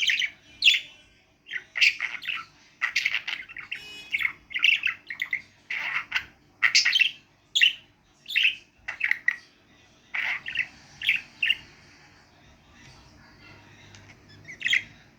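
Pet budgerigar chattering and chirping in rapid short bursts, then falling quiet for a few seconds before one last chirp near the end.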